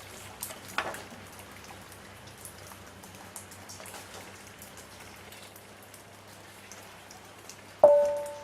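A light, steady crackling patter, then near the end one sharp metallic strike that rings with a clear pitch and fades.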